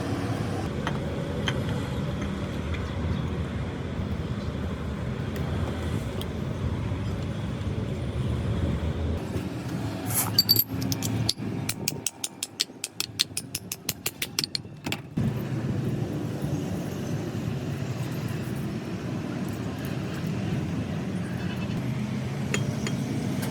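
Mechanical work noise over a steady low rumble, broken near the middle by a few seconds of rapid, even clicks, several a second.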